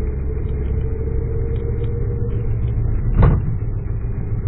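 Steady low rumble of a car's engine and road noise heard inside the cabin while driving, with one short thump about three seconds in.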